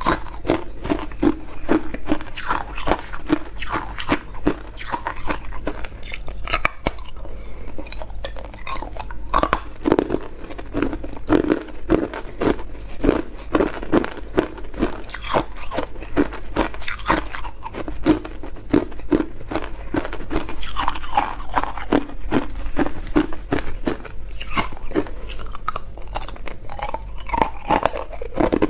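Hard clear ice being bitten and chewed close to the microphone: a continuous series of loud, sharp crunches, about two a second, as the cubes crack between the teeth.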